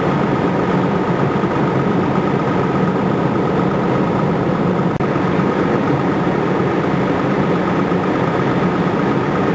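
Fire truck's diesel engine idling steadily, with a faint steady high tone running over the rumble.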